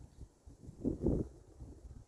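Wind buffeting the microphone outdoors, a gusty low rumble that swells louder about a second in.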